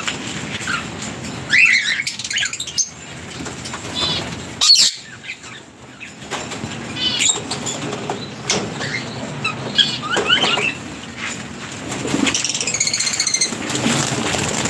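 Birds flapping their wings and giving short, scattered chirps, with a quicker run of chirps near the end.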